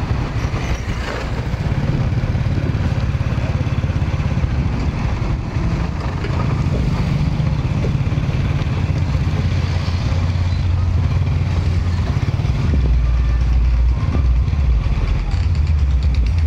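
An engine running steadily alongside outdoor street noise, its low hum growing stronger in the last few seconds.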